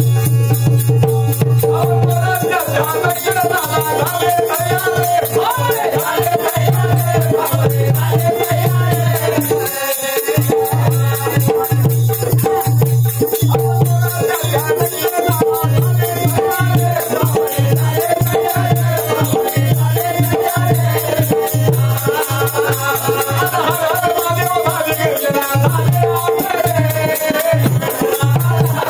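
Live Marathi folk-ballad (shahiri) accompaniment: a wavering melody over a steady drone, with a continuous rattling percussion rhythm. The music drops out briefly about ten seconds in.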